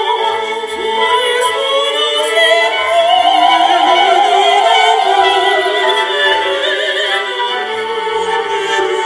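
Operatic music from a symphonic ensemble, with a melody held in strong vibrato rising to its loudest a few seconds in.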